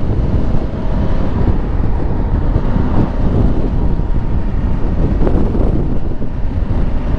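Wind rushing over a helmet-mounted microphone, with the road and engine noise of a Honda Africa Twin Adventure Sports being ridden underneath; a steady, loud rumble with no changes.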